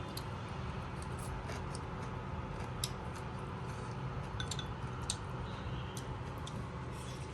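Scattered light clicks and clinks, like utensils against bowls and dishes, every second or so over a steady low hum.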